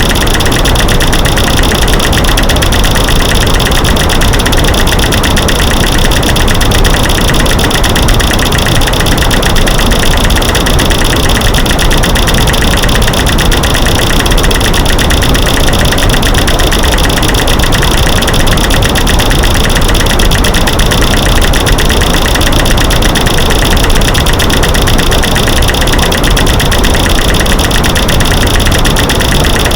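Loud masking noise: a dense, rapid, unbroken stream of clicks and knocks mixed from clicking light switches, snapping sticks and rocks knocked together, over a steady white-noise hiss. It runs on without any change.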